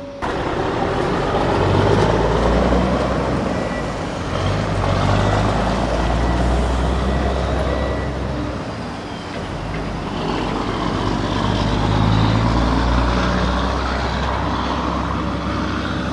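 Heavy vehicle engine sound, a deep diesel-like drone that swells and eases twice, with a thin steady high beep for a few seconds near the middle.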